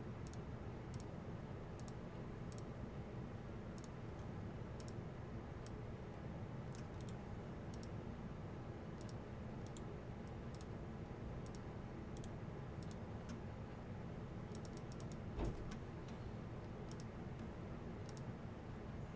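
Scattered, irregular clicking at a computer, a click every half second to second, over a steady low room hum, with one soft knock about fifteen seconds in.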